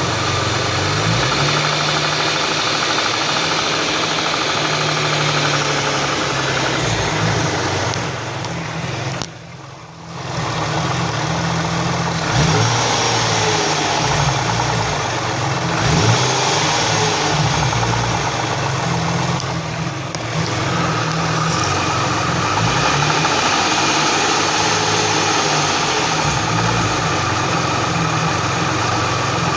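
Hyundai V6 engine running steadily, with a brief drop in level about nine seconds in and small swells around twelve and sixteen seconds.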